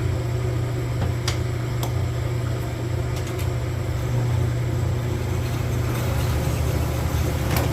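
Honing machine running steadily as a piston's pin bore is honed at the lightest feed pressure to take off high spots, with a few light clicks.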